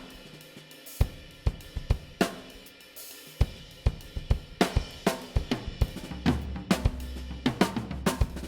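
Studio-recorded drum kit playing a groove, with kick, snare, hi-hat and cymbal hits in a mixed drum track. About six seconds in, a sustained low bass note comes in underneath.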